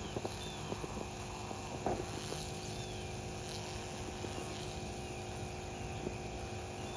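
DeWalt power box's built-in air compressor running steadily, pumping up a tractor tire toward its 37 psi auto shut-off.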